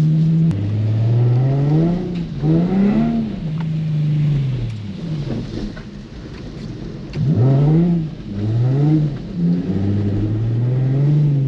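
Nissan 350Z's 3.5-litre V6 revving up and dropping back again and again, in throttle stabs while the car is drifted on slick wet pavement.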